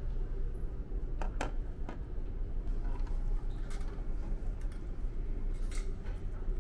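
Scattered clinks of plates and serving utensils at a buffet, a few sharp ones about a second in and more near the end, over a steady low hum.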